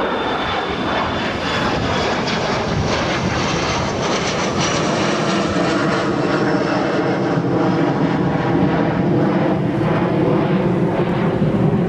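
Jet airliner engines running: a steady, loud rush with a high whine over it, slowly growing louder.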